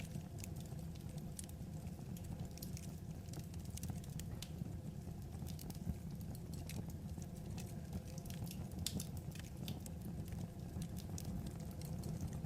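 Wood fire crackling: irregular small crackles and pops over a steady low rumble of burning logs.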